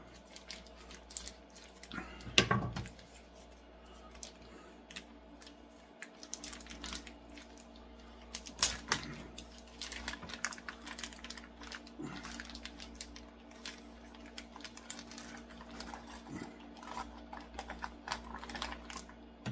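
Irregular light clicks, taps and a few louder knocks of kitchen items being handled, over a faint steady hum.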